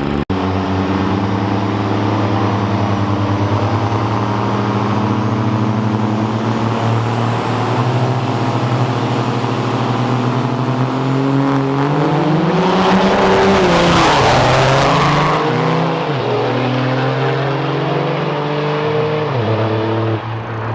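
Turbo-diesel drag trucks running on the line, with a high turbo whine climbing steadily for several seconds as they build boost. About twelve seconds in the engines rise in pitch with a loud rush, then fall back and run steady again.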